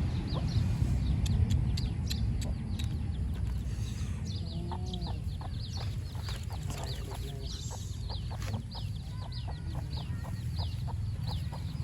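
Birds calling: rapid, short high chirps throughout, with a few lower clucking calls about five seconds in, over a steady low rumble.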